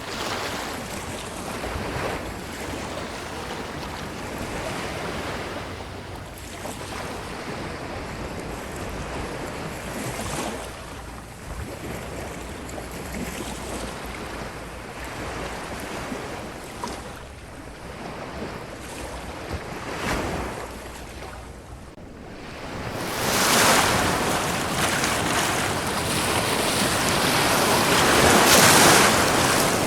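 Ocean surf washing onto a beach in a steady, rising and falling wash. The sound dips briefly about three-quarters of the way through, then a bigger wave surges in and is loudest near the end.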